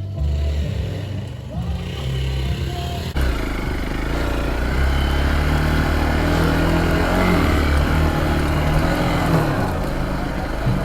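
Dirt bike engine running, its pitch stepping up and down with the throttle, with an abrupt change in the sound about three seconds in.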